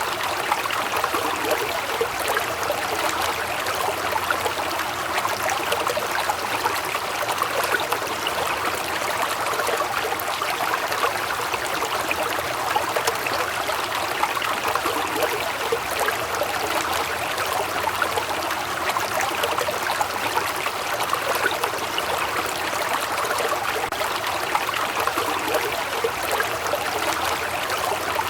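Waterfall: falling water splashing in a steady, unbroken rush.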